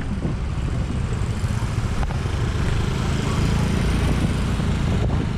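Steady low wind rumble and road noise on the camera's microphone while riding a moving vehicle.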